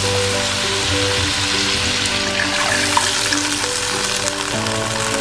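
Butter, garlic paste and green chillies sizzling in a wok as a sauce paste is poured in, a steady frying hiss. Soft background music plays under it.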